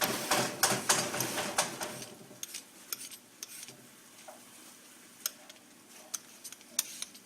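A cucumber being peeled: quick scraping strokes for about two and a half seconds, then a few scattered light clicks and taps.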